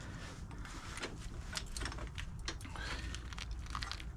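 A wrench working the nuts of wire rope clamps on a winch cable: a string of small, irregular metal clicks and clinks, over a low steady rumble.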